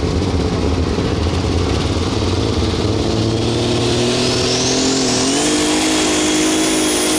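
Super stock pulling tractor's turbocharged engine running hard under load. About three seconds in, a high turbo whine rises in pitch and then holds steady at a high pitch to the end.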